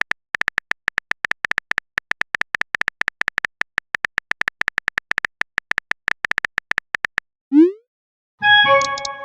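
Phone keyboard typing sound effect: quick, even clicks, several a second, for about seven seconds. Then a short rising swoop like a message being sent and, near the end, a bright notification chime of several tones.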